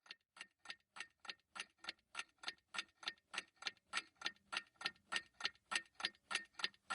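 Clock ticking, about four even ticks a second, growing steadily louder: a time-passing sound effect while the mug cake cooks.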